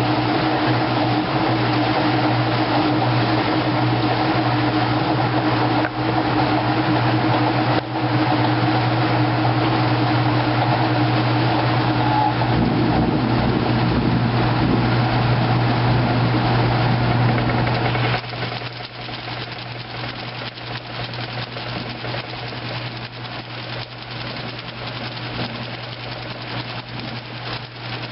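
2008 Kenmore top-load washing machine running in its heavy duty cycle: a steady motor hum that drops away about 18 seconds in, leaving a quieter sound of splashing water.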